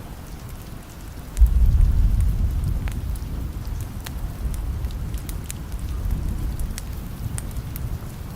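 Steady rain with a clap of thunder about a second and a half in: a sudden low rumble that rolls on and slowly fades over several seconds. Scattered sharp ticks sound over the rain.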